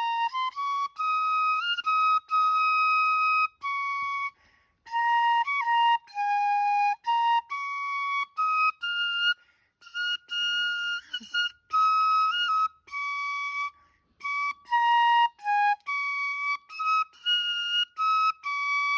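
Music: a solo flute playing a melody one note at a time, in short phrases with brief pauses between them.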